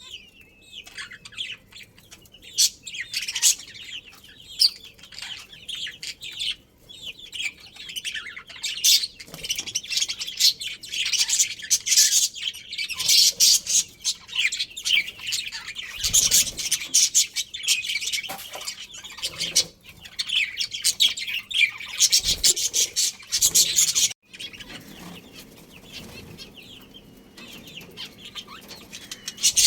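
Budgerigars chattering, a dense run of rapid chirps and warbles. It breaks off sharply about 24 seconds in, leaving fainter scattered chirps.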